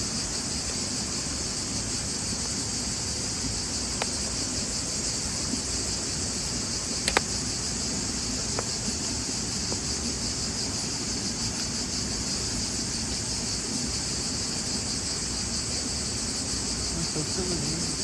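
A dense, steady chorus of chirring insects, high-pitched with a fine rapid pulse. A few sharp clicks stand out over it, the loudest about seven seconds in.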